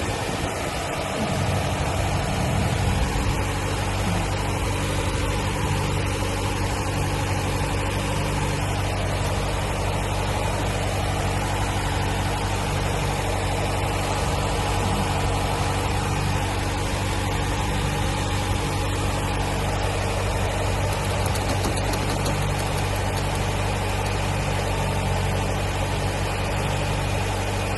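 Nissan car engine idling steadily while it warms up, with a fitted replacement throttle body. The idle has not yet been relearned, and the owner reports it sitting high, around 2,000 rpm.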